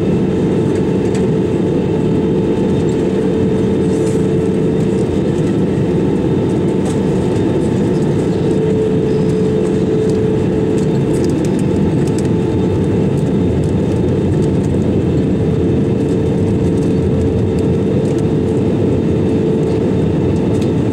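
Steady cabin noise inside an Airbus A320-200 in flight on its approach: a constant rush of air and engine noise with a steady hum running through it.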